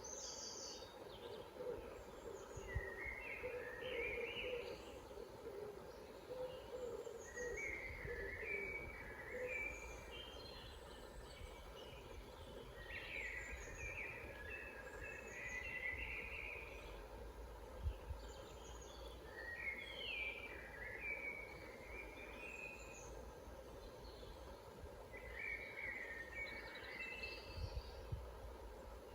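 Several forest songbirds singing, short chirpy phrases every few seconds, with a lower warbling song in the first third, over a steady low rumble.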